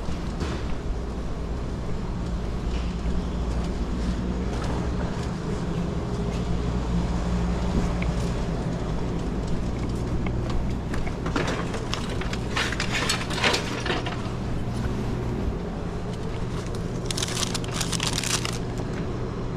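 Steady low mechanical hum from a running motor, with bursts of metallic clattering and rattling about halfway through and again near the end.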